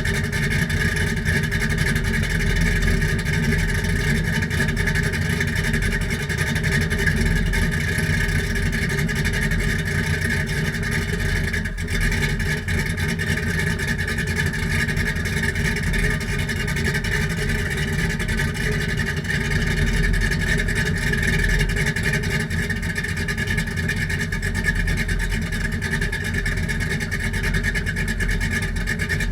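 2000 Camaro SS's LS1 V8 running steadily through TSP true dual exhaust with Flowmaster single-chamber mufflers, giving a constant exhaust drone with no clear revving.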